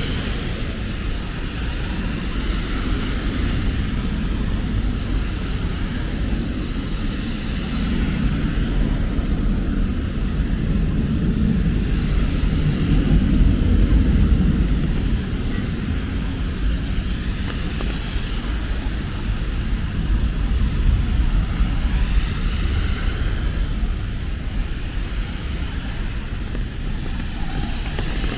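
Rainy city street ambience: a low rumble of traffic that swells and fades near the middle, over a steady hiss.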